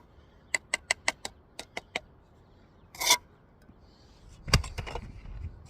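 Brick masonry work: a mason's steel trowel tapping a brick down into its mortar bed with a quick run of sharp taps, then a short scrape of the trowel, and a heavier knock near the end.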